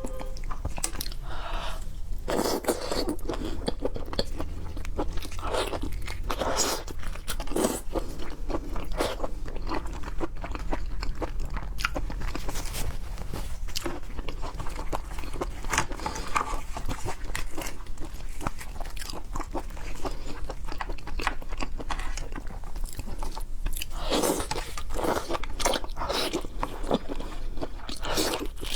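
A person chewing and biting food close to the microphone: a steady run of irregular sharp wet clicks and crunches, over a faint low hum.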